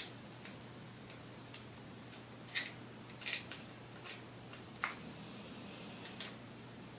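Irregular light clicks and small scrapes of a hand tool working on the metal parts of a vintage Hamilton Beach Model D mixer, over a faint steady hum.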